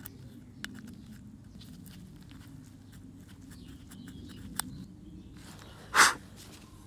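Light clicks and taps of small parts being handled on a workbench over a low steady hum, then one short, loud burst of hissing noise about six seconds in.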